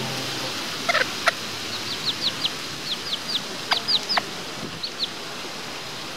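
Birds calling: clusters of quick, high, down-slurred chirps, with a few longer calls sliding steeply down in pitch, over a steady rushing background noise.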